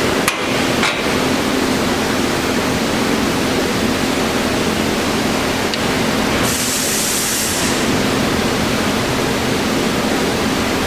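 Harrison M300 engine lathe running with a steady mechanical hum and noise. Two sharp clicks come just after the start, and a short high hiss comes about six and a half seconds in.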